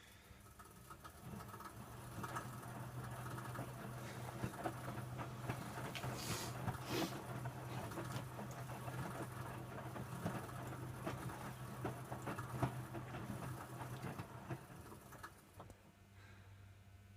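Electrolux W455H commercial washing machine turning its drum in a wash: a steady motor hum with wet towels tumbling and water splashing inside. It starts about a second and a half in and stops near the end as the drum pauses.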